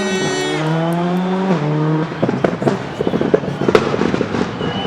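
Rally car engine revving, its pitch rising and falling, then from about two seconds in a rapid, irregular crackle of pops and bangs from the exhaust, typical of an anti-lag system.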